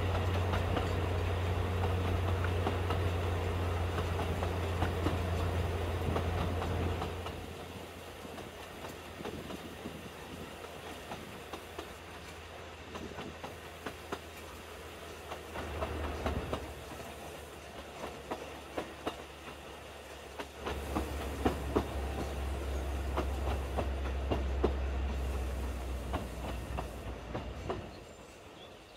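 Narrow-gauge train running along the Talyllyn Railway, its wheels clicking steadily over the rail joints. A low engine drone comes and goes: loud at the start, briefly again around the middle, and for a long stretch near the end.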